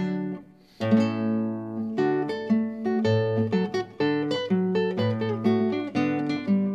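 Background music: acoustic guitar playing plucked and strummed notes, with a short pause about half a second in.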